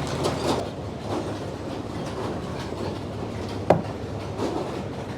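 A sawmill's power engine running steadily in the background, with scattered knocks and one sharp clank about three and a half seconds in as the log is handled on the carriage.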